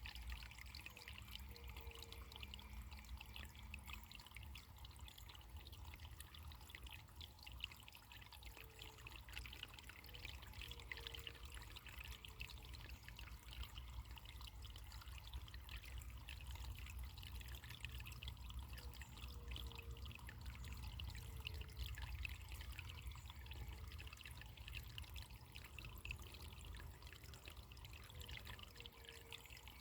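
Running water trickling and pouring in a steady, faint babble, with a few faint short low notes every several seconds.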